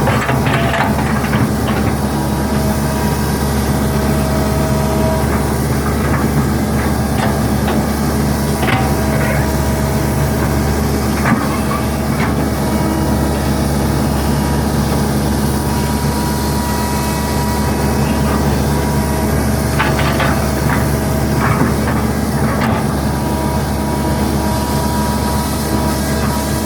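Hitachi hydraulic excavator's diesel engine running steadily at working speed, with a few short sharp knocks scattered through it.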